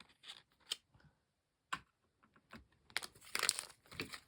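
Plastic blind-bag packaging being handled: scattered small clicks and rustles, then denser crinkling from about three seconds in.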